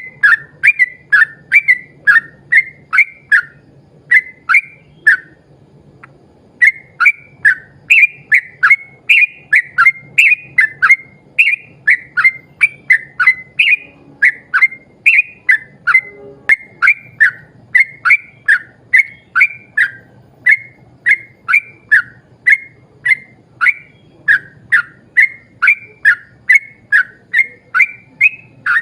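Yellow-vented bulbul (cucak trucuk) singing a long run of short, loud, whistled notes, about two to three a second. There is a break of about a second some five seconds in, then the run continues unbroken.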